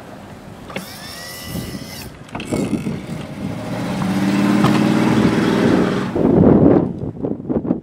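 Snow-plowing John Deere's diesel engine revving and getting louder as it works through deep snow, after a brief wavering high squeal about a second in.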